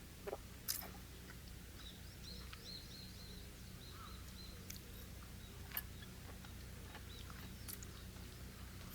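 A small bird chirping a quick run of short, high notes, faint against a steady low background hum, with a few sharp clicks scattered through, the loudest about a second in.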